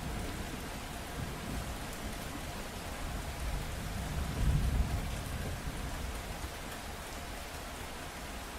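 Steady rain falling, with a low rumble of thunder that swells about halfway through and then fades.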